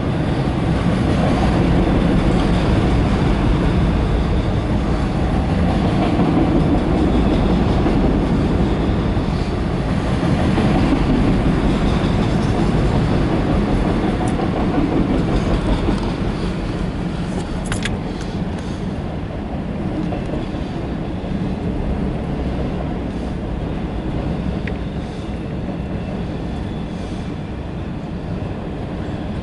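Freight train rolling by with a steady rumble, louder in the first half and easing slightly after about 18 s, with one sharp click partway through.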